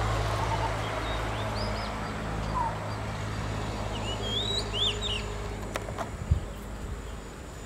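Small birds chirping, a few short high rising-and-falling calls, over a steady low hum, with a single sharp knock about six seconds in.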